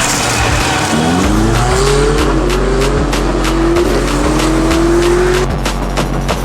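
Car engine revving up through the gears: its pitch climbs from about a second in, drops at a shift and climbs again until it fades near the end. Underneath runs music with a deep bass and a steady beat.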